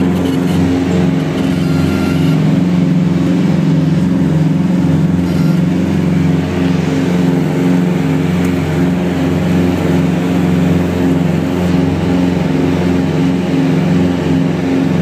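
Propeller aircraft engines running steadily at a constant setting, a loud even drone with a regular slow pulsing in its tone.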